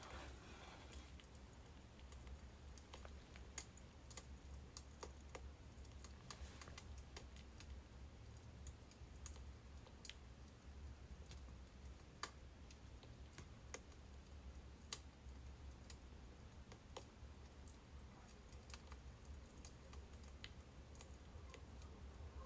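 Faint crackling of a birch-wood fire: irregular small pops and snaps, a few louder ones, over a low steady hum.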